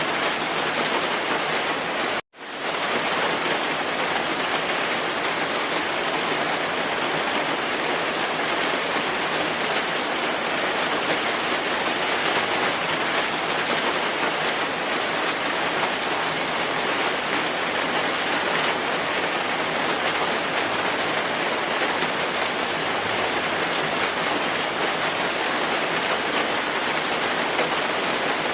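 Steady heavy rainfall, an even hiss of rain falling on surfaces. About two seconds in the sound cuts out for an instant and fades quickly back in.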